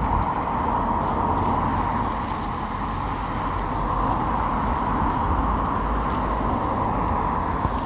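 Road traffic on a wet road: a steady hiss of tyres on water with a low engine rumble beneath, holding even throughout.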